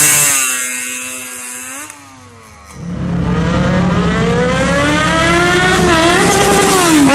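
Sport motorcycle engines accelerating. One passes and fades away over the first two seconds. About three seconds in, another revs up with its pitch climbing steadily, dipping briefly near six seconds and again near the end.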